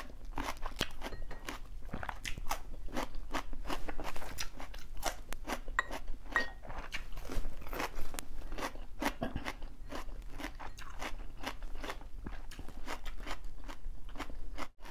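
Mouth-chewing of raw cucumber: rapid crunching bites that go on steadily, with a short break just before the end.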